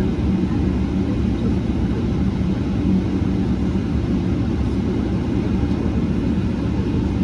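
Steady low rumble inside the cabin of a Boeing 777-300ER, the noise of its GE90 engines and airflow, holding even with no change in pitch or level.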